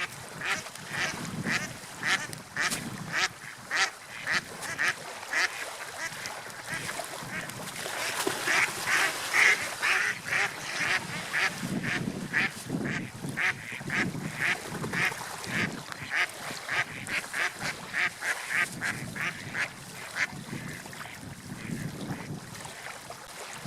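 A flock of waterfowl calling, with short calls repeating several times a second and growing loudest about a third of the way in. Beneath them is a steady rumble of wind or water.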